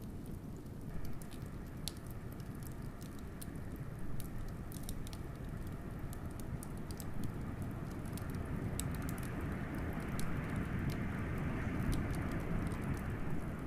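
Wood fire crackling with many small, sharp pops over a steady low rush of blizzard wind; the wind's hiss swells from about eight seconds in.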